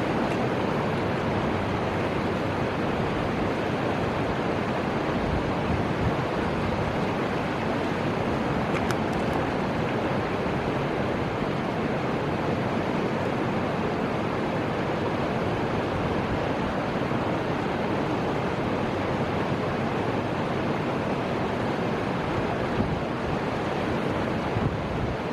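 Steady rushing noise of flowing river water, mixed with wind.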